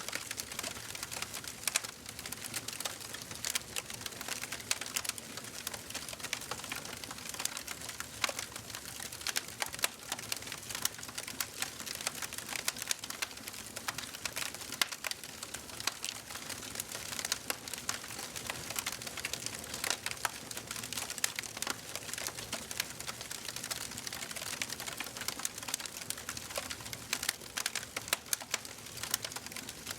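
Wood fire crackling steadily in a fireplace: a constant hiss of burning with many small sharp pops and snaps scattered irregularly throughout.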